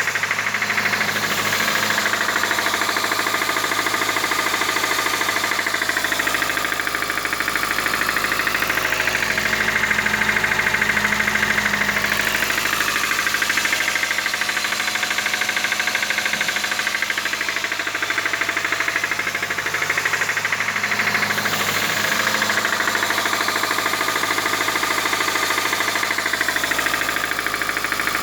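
Petrol engine running with a rapid, steady metallic knocking, the sound of knocking valves in a badly worn engine. The knocking swells slightly twice.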